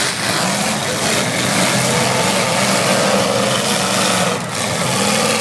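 Several eight-cylinder demolition derby cars running and revving at once, their pitch wavering up and down.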